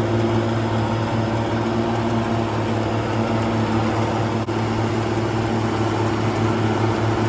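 Farm tractor engine running steadily at a constant speed, with a brief dip about four and a half seconds in.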